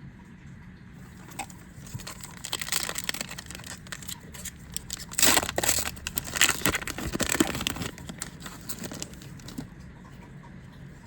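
A Yu-Gi-Oh! booster pack's foil wrapper being torn open and crinkled, loudest from about five to seven and a half seconds in, with small clicks and rustles around it.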